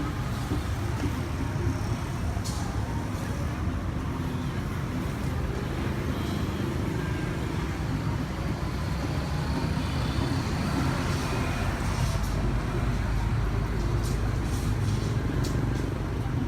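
KTM 690 Duke's single-cylinder engine running through an aftermarket Arrow exhaust: a steady low exhaust rumble, growing slightly stronger in the second half.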